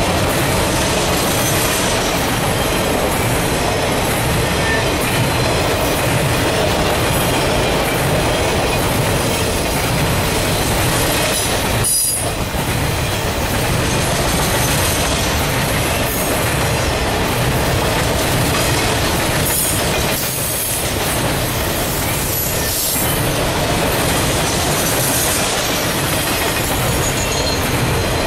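Triple Crown RoadRailer freight train rolling past close by: a loud, steady rumble of steel wheels on the rail under the trailers, with short high squeals of the wheels now and then and two brief dips in the noise.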